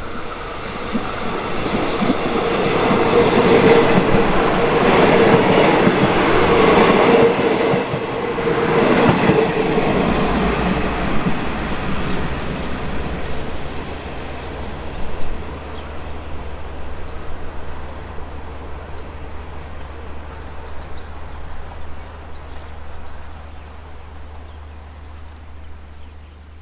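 Daewoo diesel railcar train passing close by on the next track: engine and wheel noise swell to a peak and then fade away as it goes past. A thin high wheel squeal comes in partway through and holds for several seconds before dying out.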